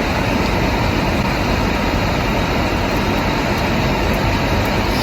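Steady rushing noise inside a car cabin from the car's air-conditioning fan and running engine, even throughout with no changes.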